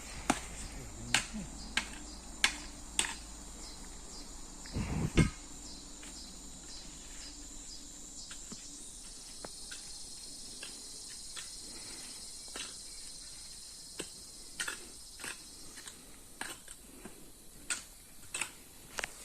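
Insects, crickets or similar, chirring steadily in the background. Scattered short clicks and knocks sound over it, with one louder thump about five seconds in.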